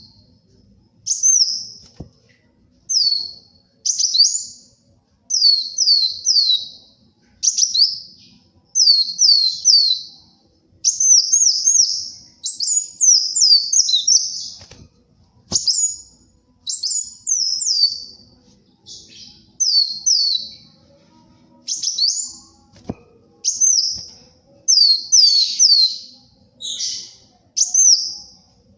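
Kolibri wulung sunbird singing in lively, full song (gacor): short phrases of two to four quick, high, downward-slurred notes, repeated about once a second with brief pauses between them.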